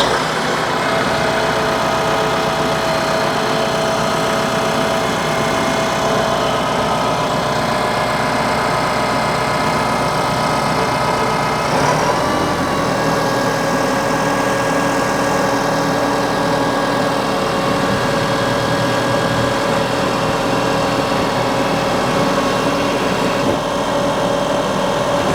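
TYM T754 75-horsepower diesel tractor engine running steadily just after starting. About twelve seconds in there is a short knock, and the engine's pitch settles slightly lower.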